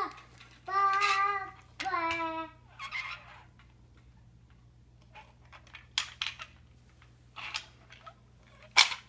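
A small child imitating a train with the voice: two held, whistle-like "woo" calls, then a few short breathy "chh" puffs spaced a second or more apart.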